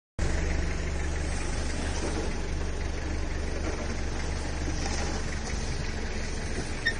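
Four-wheel-drive engine running at low revs with a steady low hum, heard from inside the cabin while crawling along a dirt track.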